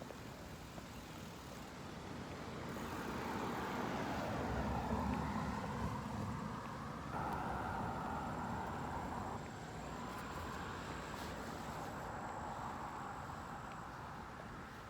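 A motor vehicle passing by: a rushing tyre and engine noise that swells over a few seconds, shifts in pitch partway through, and slowly fades away.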